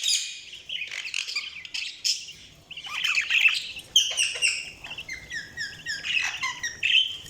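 Budgerigars chirping and chattering: many short, high chirps and squawks, with rapid runs of falling notes around the middle, dipping quieter briefly a little before the middle.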